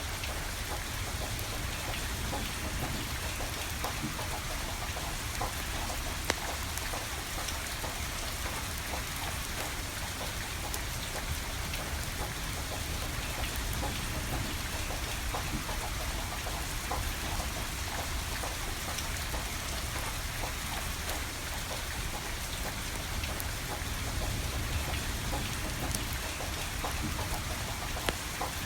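Steady rain falling, with a wood fire crackling in scattered sharp pops; two louder pops stand out about six seconds in and near the end.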